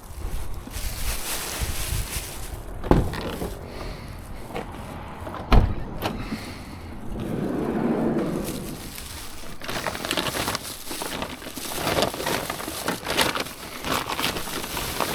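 Items being loaded into a van: rustling and shuffling handling noise, with two sharp thumps about three and five and a half seconds in as things are set down.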